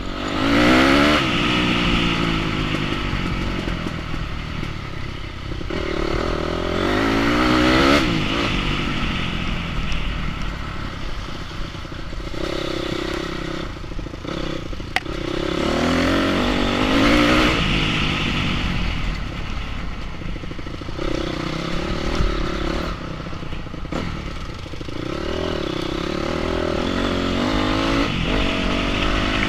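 Enduro motorcycle engine revving up and easing off again and again, with several climbing runs through the revs, and a few sharp knocks and rattles in between.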